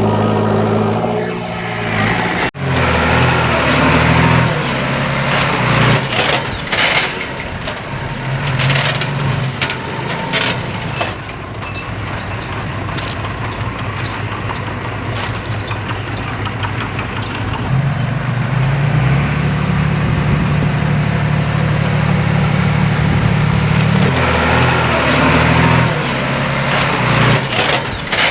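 Diesel engine of heavy earthmoving machinery running under load, with scattered metallic clanks and rattles. The sound drops out for an instant about two and a half seconds in, and the engine's drone grows heavier for several seconds past the middle.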